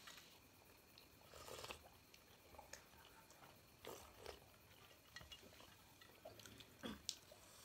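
Faint chewing of steamed momo dumplings, with a few short mouth sounds and light clicks scattered through an otherwise quiet room.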